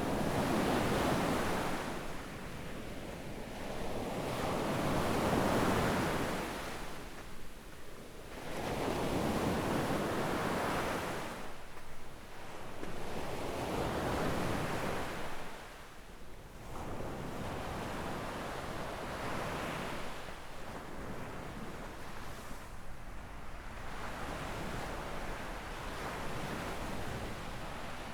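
Small sea waves breaking and washing up a sandy beach, the surf swelling and fading every four or five seconds, then settling into a steadier wash in the second half.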